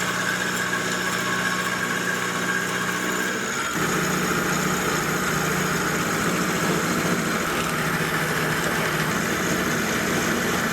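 Milling machine running steadily with a mechanical hum, cleaning up the faces of a steel off-cut held in the vise. About four seconds in the tone shifts and gets a little louder and hissier.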